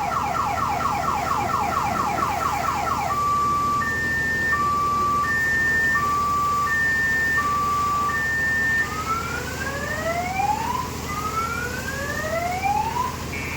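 Multi-tone electronic car alarm siren cycling through its patterns: rapid repeated falling sweeps for about three seconds, then a slow two-tone high-low alternation, then a series of rising whoops for the last few seconds.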